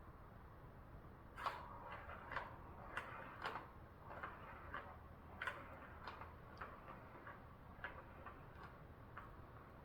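Faint, irregular light clicks and taps, like a cat batting a ball around a plastic cat toy.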